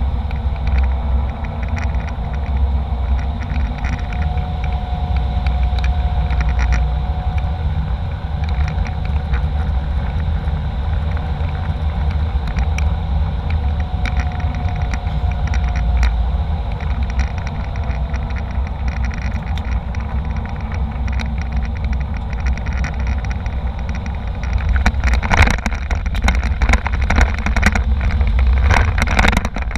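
Airliner cabin noise in flight: a steady low rumble of jet engines and airflow, with a faint wavering tone. About 25 seconds in, a flurry of sharp clicks and rattles begins and runs on near the end.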